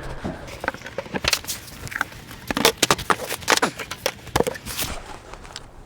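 Beehive boxes and lids being handled as a hive is opened and checked: a run of irregular knocks, clicks and scrapes, busiest in the middle.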